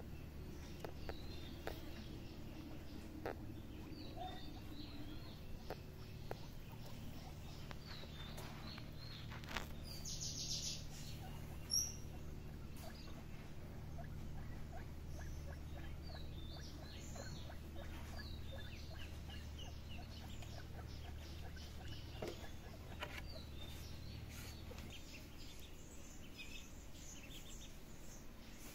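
Faint outdoor ambience: small birds chirping on and off over a low steady hum, with scattered light clicks and one sharp click about twelve seconds in.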